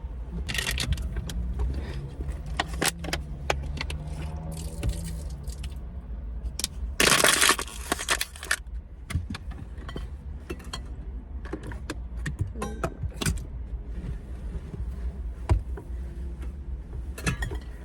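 Belongings being handled and put back in place inside a car: scattered clicks, knocks and light rattles, with a loud rustle for about a second and a half some seven seconds in, over a steady low hum.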